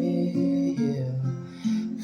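Acoustic guitar playing chords, the notes changing several times, with a brief dip about a second and a half in before the next chord is struck.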